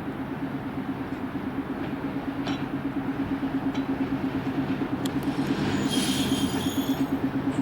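A train moving on station track with a steady low hum that grows slowly louder. From about five seconds in, high thin wheel squeal and a few clicks from the rails join it.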